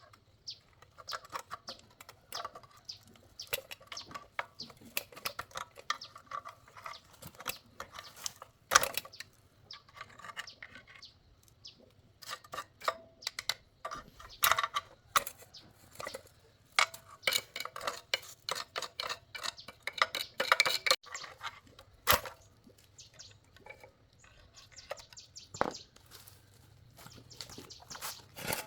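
Irregular clicks, taps and knocks from hand-tool work on a machine, busiest in the second half, with birds chirping faintly behind.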